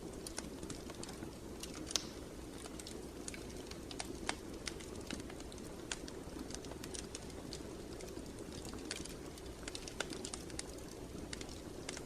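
Wood fire crackling in a fireplace: irregular sharp pops and snaps over a steady low rumble of burning, with a couple of louder pops about two and four seconds in.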